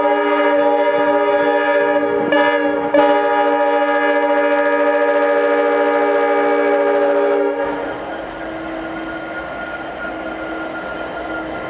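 Diesel locomotive's air horn sounding one long, steady chord, which cuts off about seven and a half seconds in, leaving the locomotive's engine and wheels rumbling past. Two brief bumps sound over the horn around two and three seconds in.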